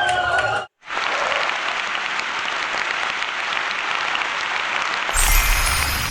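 A small group of people clapping steadily for about four seconds, after a brief end of music and a sudden cut; near the end it cuts to a low rumbling background.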